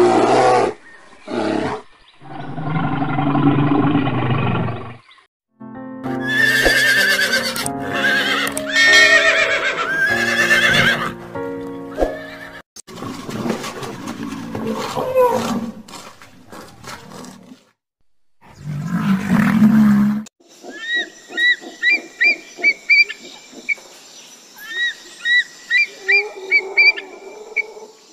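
A run of short animal-call clips cut one after another over background music, including a horse whinnying. Near the end comes a rapid series of short high chirps.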